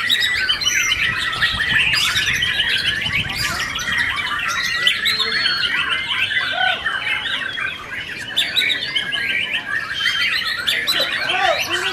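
Several white-rumped shamas (murai batu) singing at once in a contest row. Their loud, fast whistled phrases overlap without a break.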